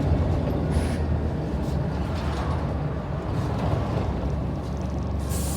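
Scania N94UD Omnidekka double-decker bus's diesel engine running with a steady low drone, with a brief hiss about a second in.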